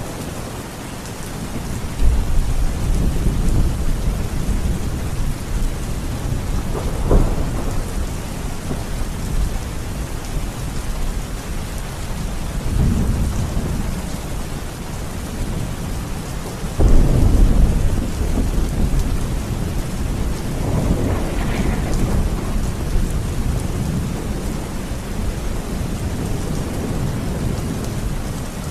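Steady rain with rolling thunder. Low rumbles swell and fade several times, the loudest just past the middle.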